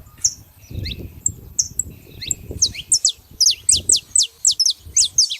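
A flock of saffron finches calling, many quick high chips sweeping downward and overlapping; the calls thin out near the start and crowd back in from about three seconds in, over a low rumble.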